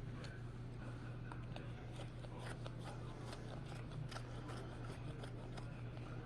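Many small, irregular clicks and rustles, like things being handled or snipped, over a steady low hum.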